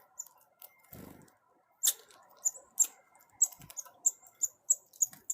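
Red squirrel nibbling pumpkin seeds at close range: a string of short, sharp clicks, about three a second, starting about two seconds in.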